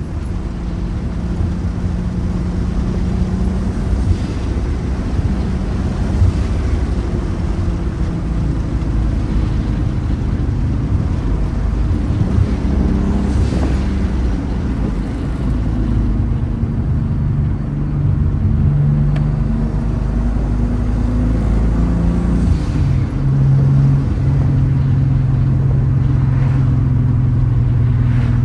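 Turbocharged VR6 engine and exhaust running under way, its low drone holding steady and stepping to a new pitch a few times, with a few faint whistling sweeps from the turbo.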